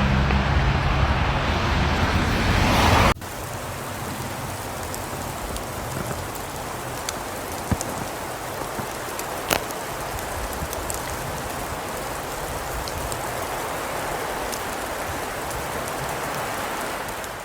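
Outdoor storm ambience. Loud traffic-like noise with a low engine hum runs for about three seconds and cuts off abruptly. A steady, quieter hiss follows, with scattered light ticks, like precipitation striking surfaces.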